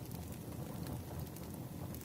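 Burning firewood: a steady low rush of flame with a few faint crackles and pops.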